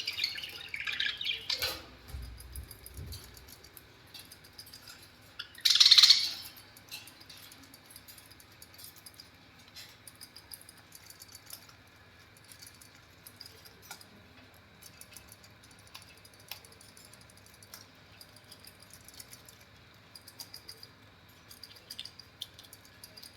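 Budgerigar chirping: a few chirps in the first two seconds and one loud burst of chirping about six seconds in, then only faint, scattered ticks and chirps.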